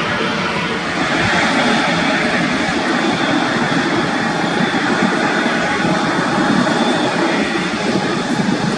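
Jet engines of a FedEx cargo plane at high power for takeoff: a steady, loud rushing noise that holds even throughout.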